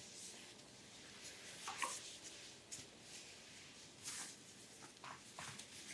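Hands gliding and rubbing over oiled skin during an abdominal massage, soft swishing strokes, two of them a little louder, about two and four seconds in.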